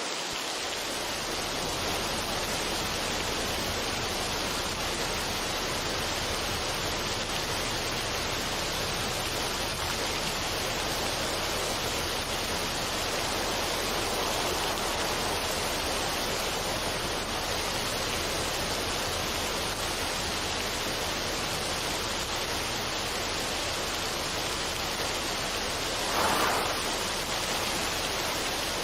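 Steady, even rushing noise like a waterfall or pink noise, with no melody, swelling briefly louder near the end.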